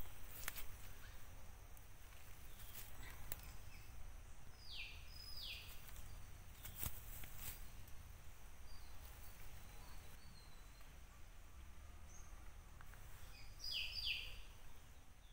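Faint outdoor ambience with a low rumble. A bird calls twice, each call a pair of quick falling chirps, about five seconds in and again near the end. A few sharp clicks are scattered through it.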